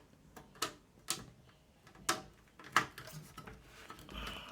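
A case fan being handled in a PC case: a handful of sharp, separate plastic-and-metal clicks and knocks.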